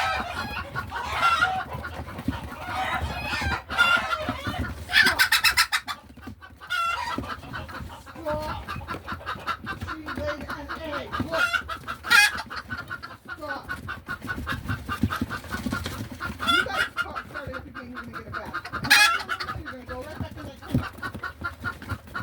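Chickens clucking loudly after an egg is laid: a hen's egg song, a long run of rapid clucks broken by a louder squawk about every seven seconds, with other chickens calling along.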